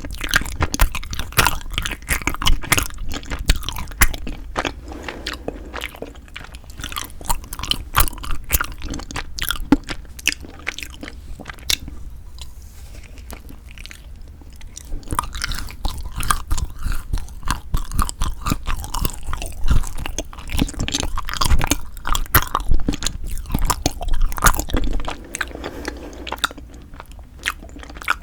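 Close-miked biting and chewing of a frozen cream cheese ice rice cake, with crunchy crackles and wet mouth clicks. It thins out to a quieter stretch about halfway through, then the chewing picks up again.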